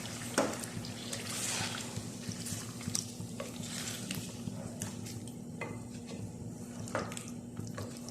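Chicken being stirred in a karahi, the utensil scraping and knocking irregularly against the pan. Underneath is a light sizzle of the chicken frying in yogurt and masala.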